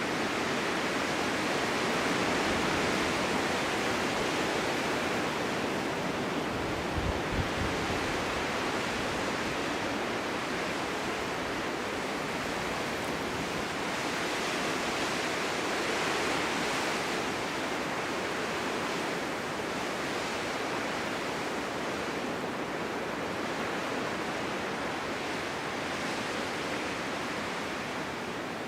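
Steady winter wind blowing, a continuous rushing noise that swells and eases slowly, with a short low buffet about seven seconds in.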